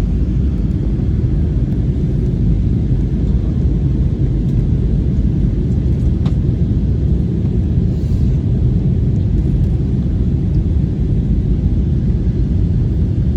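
A jet airliner in flight, its engines and rushing air making a steady low rumble.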